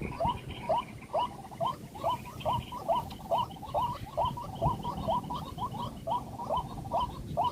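White-breasted waterhen (ruak-ruak) call: a steady, rhythmic run of short upward-swooping notes, about two a second.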